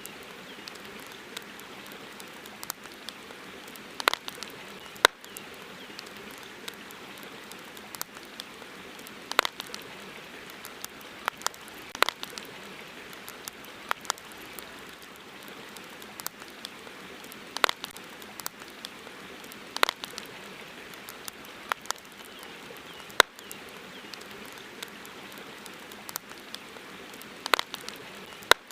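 Campfire crackling: sharp, irregular pops every second or two over a steady soft hiss.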